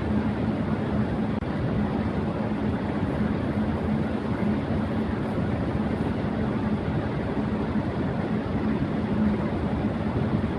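Electric fan running at high speed: a steady rush of air with a steady low hum underneath.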